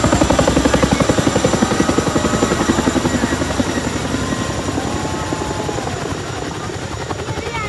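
Helicopter rotor blades chopping in a fast, even rhythm as the helicopter passes overhead, fading steadily as it moves away.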